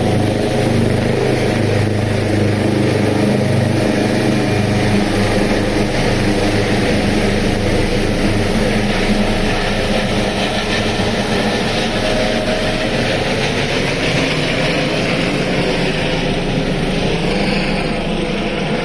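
Rescue helicopter's turbine engines and rotor running loud during takeoff. A low steady hum is strong for the first few seconds, then the sound turns to a broader rushing noise, getting quieter near the end as the helicopter moves away.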